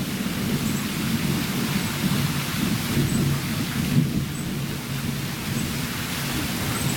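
Summer thunderstorm: rain falling steadily with thunder rumbling continuously underneath.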